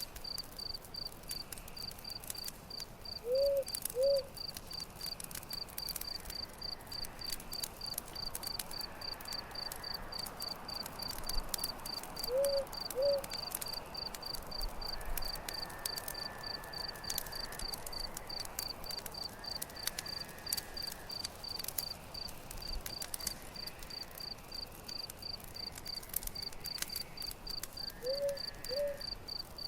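Campfire crackling with scattered sharp pops, over crickets chirping in a steady fast pulse. A low two-note animal call sounds three times: a few seconds in, near the middle, and near the end.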